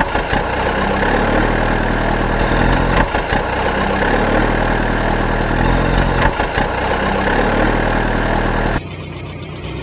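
An engine running steadily, its pitch stepping up and down a few times, then cutting off abruptly near the end into a quieter, duller sound.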